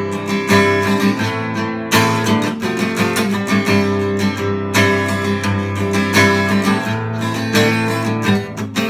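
Acoustic guitar strummed in a steady rhythm, the chords ringing, with heavier strokes about two and five seconds in.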